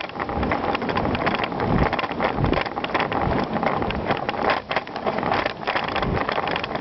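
Bicycle riding over a gravel trail: tyres crunching and the bike rattling over the rough surface, with wind buffeting the microphone.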